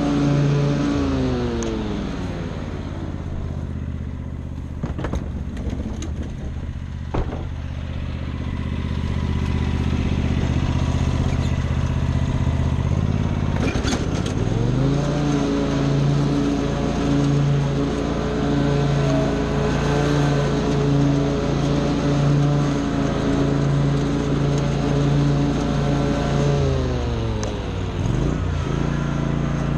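Small gasoline engine of lawn equipment running at high speed. It drops to a low speed about a second in, with a few sharp clicks while it runs low, then speeds back up and holds steady. It dips briefly and recovers near the end.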